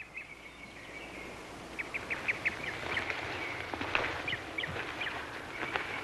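Bird chirping in quick runs of short high notes, several runs with pauses between them, over a steady faint outdoor hiss.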